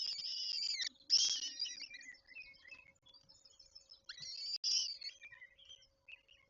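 Peregrine falcons calling at the nest: harsh, rasping calls in three bouts of about a second each, the loudest about a second in. A faint steady hum runs underneath.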